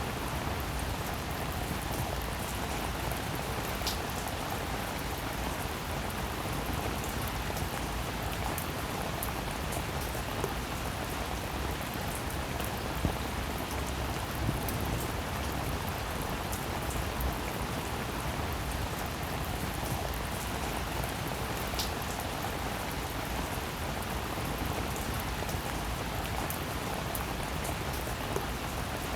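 Steady rainfall, an even hiss of many drops with a few single drops ticking out sharper now and then.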